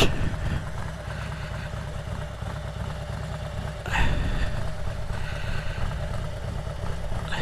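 Harley-Davidson Road Glide's V-twin engine idling with a steady low, pulsing rumble, with a brief louder swell about four seconds in.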